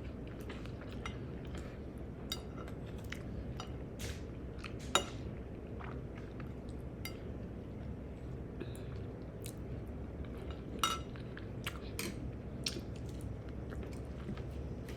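Mouth sounds of chewing food, with a scattering of sharp clicks and clinks of cutlery on a plate, the sharpest about five seconds in. A steady low hum runs underneath.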